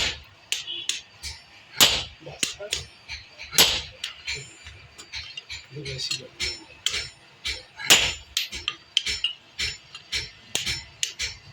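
Hand hammer striking metal at a blacksmith's work, in irregular sharp blows of about one to two a second with some heavier strikes among them.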